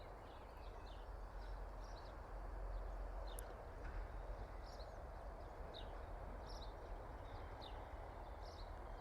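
Small birds chirping in short, scattered calls over a steady, faint outdoor background of low rumble and hiss.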